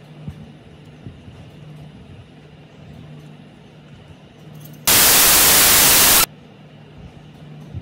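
A loud, even hiss that starts suddenly about five seconds in, lasts about a second and a half and cuts off sharply, over a low steady hum with a few faint ticks.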